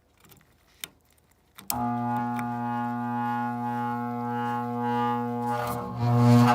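A click or two, then the ICP/Heil air handler's blower motor comes on with a loud, steady electrical drone full of overtones, swelling louder near the end. It doesn't sound good: the motor is stiff, and by its sound the technician judges it needs replacing.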